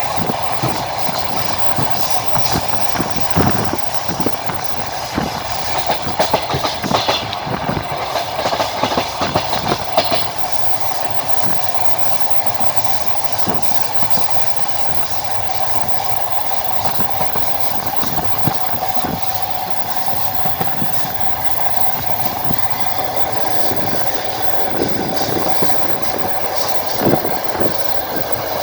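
Wheels of a moving passenger train clattering over the rail joints, heard from the carriage window over a steady rolling rumble. Clusters of sharp knocks come through the first third and again near the end.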